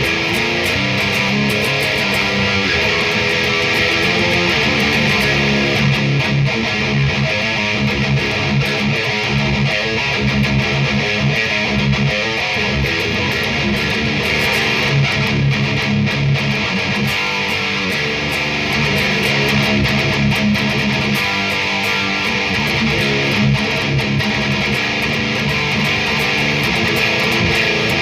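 Electric guitar riffs played loud through a Mesa Rectifier amp, distorted and continuous, from an ESP M2 Custom with a Seymour Duncan Nazgul pickup. The amp is being pushed by a Knuckle Sandwich overdrive pedal used as a boost.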